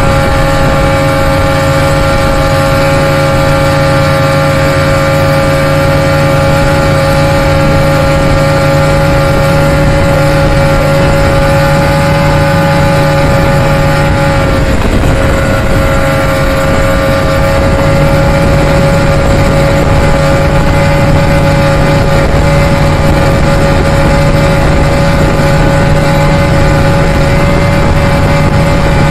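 Evinrude 200 HP two-stroke V6 outboard running steadily at speed, with wind and water rush; its pitch wavers briefly about halfway through.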